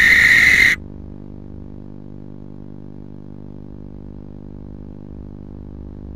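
Barn owl's harsh, hissing call that cuts off abruptly under a second in. A steady low electrical hum is left until the hissing starts again at the very end.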